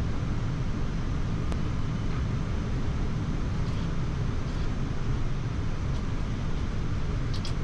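Steady flight-deck noise of a Boeing 787-9 on final approach: an even, low rumble, with a couple of faint clicks.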